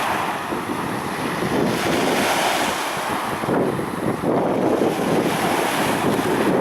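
Black Sea surf: waves washing onto the shore in a steady rushing noise that swells and eases.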